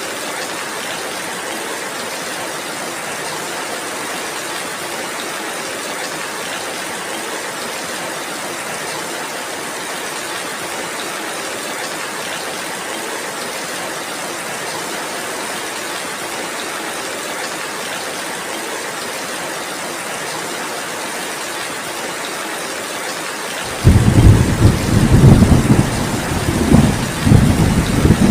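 Heavy rain falling as an even, steady hiss. About twenty-four seconds in, a loud rumble of thunder breaks in suddenly and rolls on, swelling and fading, through the last few seconds.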